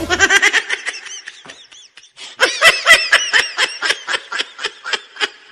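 A high-pitched voice laughing in rapid bursts: a first bout, a short pause, then a louder second bout.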